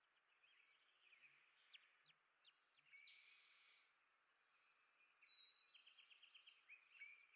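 Faint songbird chirps and warbling song, with a quick run of repeated notes from about five to seven seconds in, over a light background hiss.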